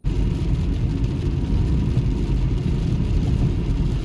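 Loud, steady rumbling noise of a vehicle in motion, heaviest in the low end, cutting in suddenly.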